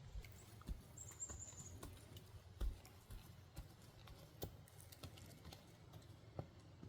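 Faint scattered clicks and taps, with a brief high chirping trill about a second in and a soft thump a little later.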